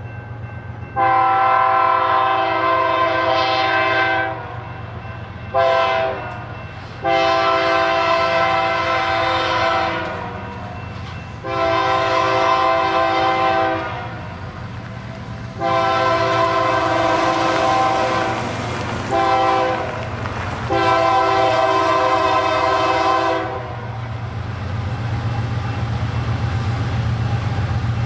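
Diesel locomotive's multi-chime air horn sounding repeated long and short blasts, ending in the long-long-short-long grade-crossing signal, over the low drone of the approaching locomotive engine, which grows louder near the end.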